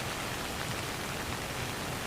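Steady rainfall: a dense, even patter of drops on a surface, with no thunder.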